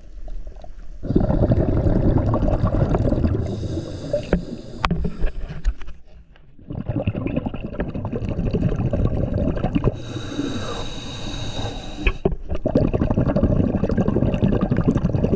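Water sloshing and splashing, a dense churning noise, broken by abrupt cuts about a second in, about six seconds in and about twelve seconds in.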